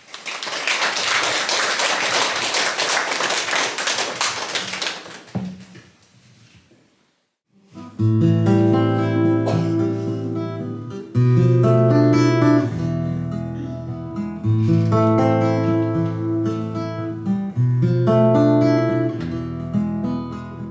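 Audience applauding for about five seconds. After a brief pause, an acoustic guitar starts a picked introduction, with its bass notes changing every couple of seconds.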